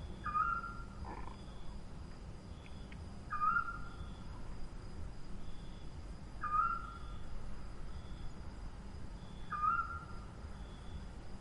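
A bird calling four times, about every three seconds. Each call is a short note that drops quickly and then holds level for under a second. A faint steady high tone runs underneath.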